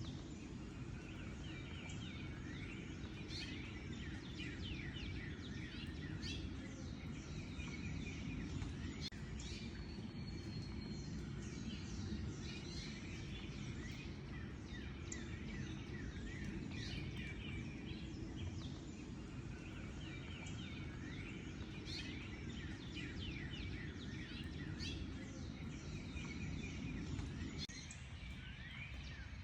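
A chorus of small songbirds chirping and calling, with many short, quick down-slurred notes overlapping, over a steady low background rumble that fades out near the end.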